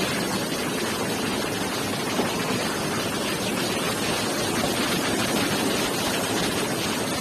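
Heavy thunderstorm rain pouring down steadily, a dense even hiss.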